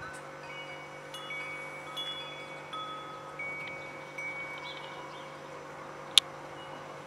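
Wind chimes ringing: scattered clear tones at several pitches, each ringing on for about a second. A single sharp click about six seconds in is the loudest sound.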